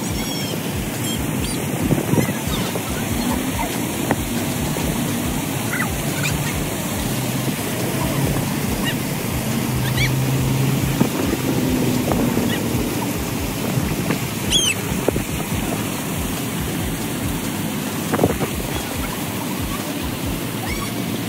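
Steady rushing splash of an artificial rock waterfall pouring into a pond, with faint voices and a few sharp clicks.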